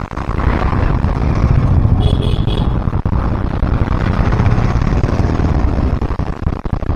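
Road vehicle engine and road noise while driving in traffic, steady and loud. There is a brief high beeping about two seconds in.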